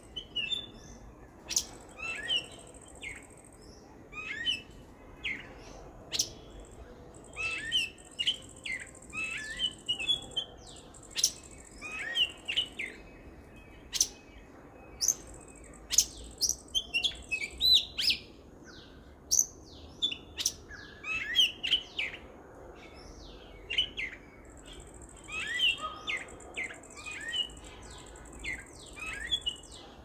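Songbirds calling: a busy, irregular run of short sharp chirps and whistled notes, some gliding in pitch, several a second. A steady high hiss comes and goes beneath them.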